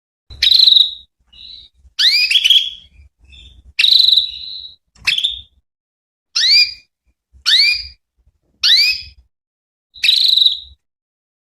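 Female domestic canary calling: a series of short, rising, whistled calls, about eight or nine, one every second or so.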